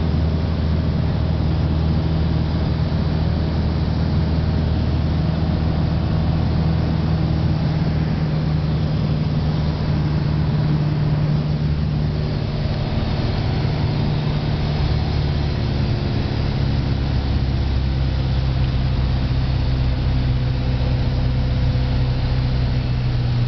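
Light aircraft's engine and propeller droning steadily on the approach to landing. The pitch steps down slightly a little past the middle, as power is eased back.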